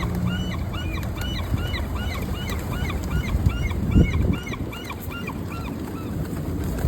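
Gulls calling: many short, hooked calls at several pitches, three or four a second, tailing off about five and a half seconds in. A thump about four seconds in.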